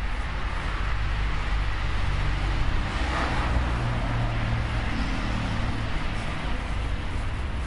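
Night street ambience: a steady rumble of road traffic, with one vehicle swelling louder as it passes about three seconds in.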